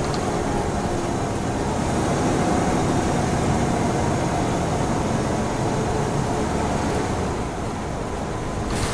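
Scania N94UB Omnicity single-decker bus under way, heard from inside: steady engine and road noise, easing a little near the end, with a few light clicks right at the end.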